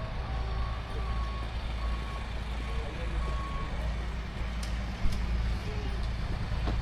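Steady low rumble of an idling vehicle engine, with a run of short, high beeps over roughly the first half.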